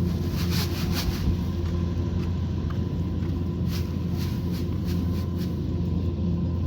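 Kubota combine harvester's diesel engine running steadily under load, a low hum with a constant whine over it and light clicks and rattles now and then.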